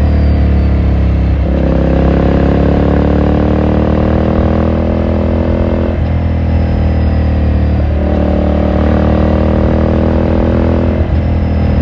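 2018 Ducati Scrambler Sixty2's 399 cc air-cooled L-twin running under way, its engine note climbing slowly in pitch with short breaks about a second and a half, six, eight and eleven seconds in, where the rider changes gear.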